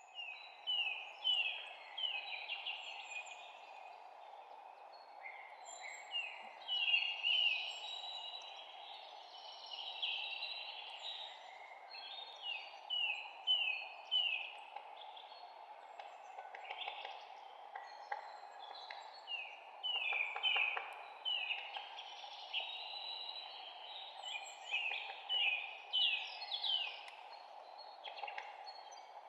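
Several songbirds chirping, with series of short, quickly falling notes in rapid runs, over a steady background noise.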